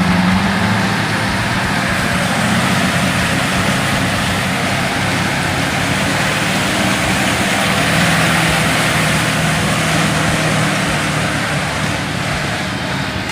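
Heavy truck engine running steadily and loudly, its pitch shifting slightly up and down with no breaks.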